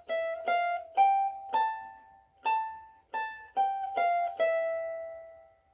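Soprano ukulele strung with Aquila Reds, picked one note at a time high up the neck around the 12th fret: about ten plucked notes, the last left ringing with long sustain.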